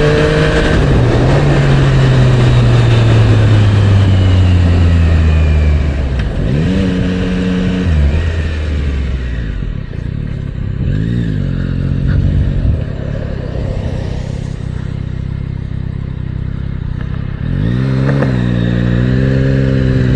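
Motorcycle engine pulling away on the road: its pitch sinks slowly for several seconds, then it gives a few short revs that rise and fall. After a quieter stretch it picks up again near the end.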